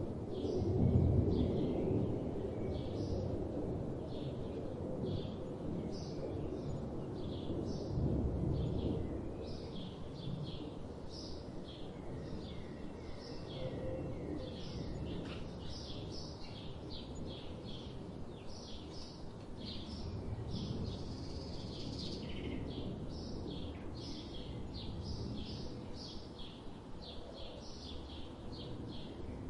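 Birds chirping: many short, high chirps repeating one after another, over a steady low rumbling background noise that swells briefly about a second in and again around eight seconds in.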